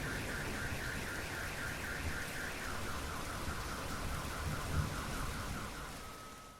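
Steady rain with a car alarm sounding through it: a fast warbling tone pulsing about four times a second, then a lower warble about halfway through, then a steady tone. Everything fades out at the very end.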